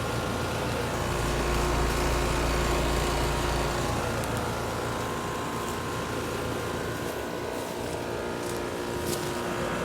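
2006 American Standard Allegiance 14 four-ton central air conditioner condensing unit running steadily, with its condenser fan turning slowly. It makes a steady hum with a few constant whining tones over the whoosh of the fan.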